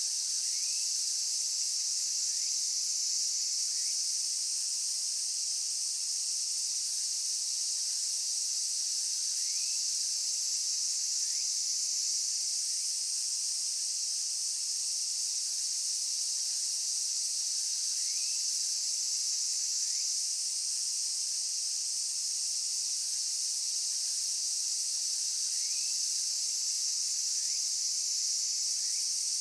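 Insect chorus: a dense, steady, high-pitched trilling that never pauses. Faint short rising calls recur every several seconds beneath it.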